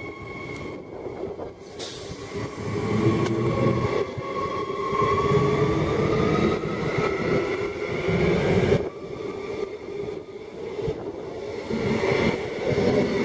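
Queensland Rail electric multiple-unit commuter train running past close by, a steady rumble of wheels on the rails with a whine that rises slowly in pitch for a few seconds.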